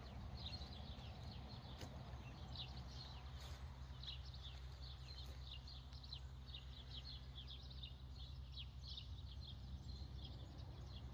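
Birds chirping: many short, quick falling notes, overlapping and continuous, over a faint steady low rumble.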